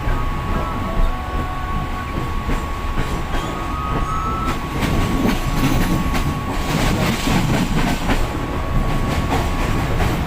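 Moving train running on the rails: a steady low rumble, with the wheels clacking over the rail joints, most densely in the second half.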